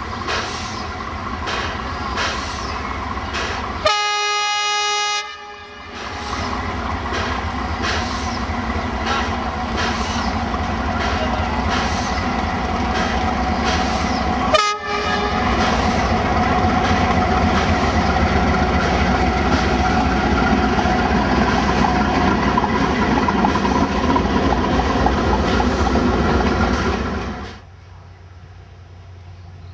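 Locomotives working in a rail yard: rhythmic beats, then a single-tone train horn blasts for about a second about four seconds in and gives a short toot at about fifteen seconds. After that comes the loud, steady running of a diesel locomotive hauling coaches, which drops to a quiet background near the end.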